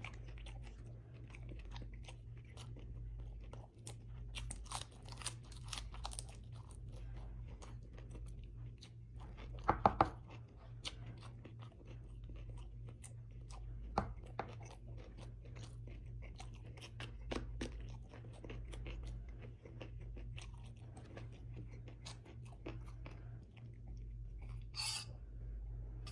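Close-up chewing and wet mouth sounds of eating beef ribs and rice by hand, with scattered crunchy bites and sharp clicks, the loudest about ten seconds in, over a low steady hum.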